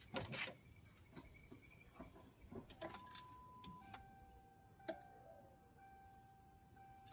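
Near silence with faint scattered clicks and ticks and a few long, steady electronic beep tones. A single sharp click comes right at the end.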